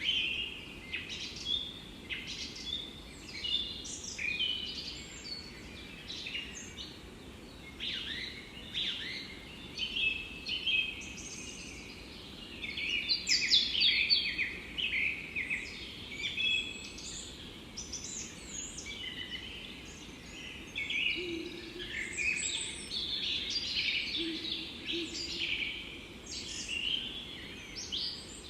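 A chorus of several songbirds singing and calling at once, with many short chirps and trills overlapping without pause, over a faint steady background noise.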